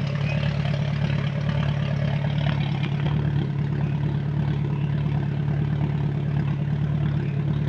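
Off-road vehicle's engine running steadily at idle, an even hum that does not rise or fall.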